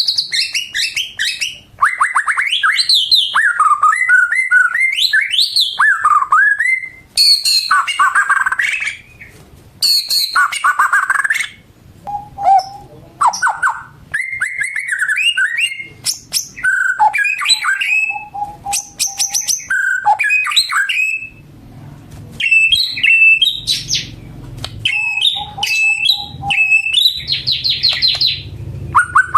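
White-rumped shama (murai batu) singing a loud, varied song: phrases of clear whistles, rapid trills and sweeping notes, broken by short pauses.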